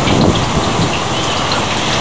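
Steady rain falling during a thunderstorm, a dense hiss with scattered drop ticks.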